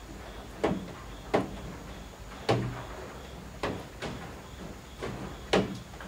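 Rainwater dripping from the eaves, landing as irregular sharp knocks about once a second over a soft, steady rain hiss.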